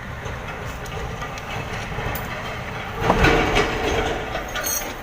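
Low mechanical rumble of a heavy engine, swelling louder with a steady hum about three seconds in and easing off again before the end.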